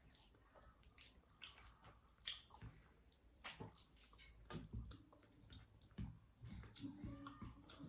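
Faint eating sounds: chewing with soft, wet squishes and scattered small clicks of food being picked up and eaten.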